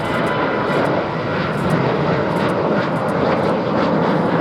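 Boeing 737-800's CFM56-7B turbofan engines at takeoff power: a loud, steady jet noise, strongest in the low and middle range, building slightly.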